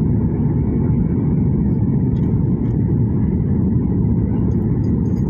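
Steady low rumble of a landing aeroplane, holding an even level with no clear rise or fall.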